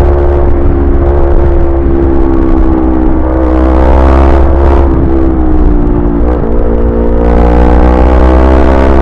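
Yamaha YZF-R25's 250 cc parallel-twin engine running under way, its pitch mostly steady, dipping briefly about six seconds in and then climbing slowly, over a constant low rumble.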